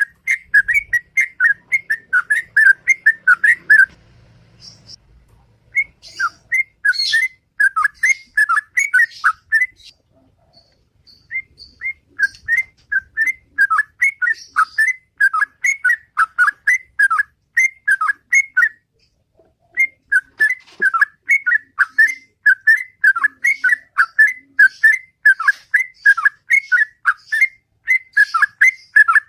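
Yellow-vented bulbul (trucukan) singing its loud "ropel" song: quick whistled notes repeated about four a second in long runs, breaking off briefly a few times.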